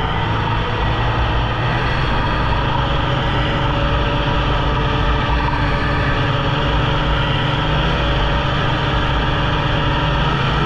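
Polaris Indy snowmobile engine running steadily at an even pitch.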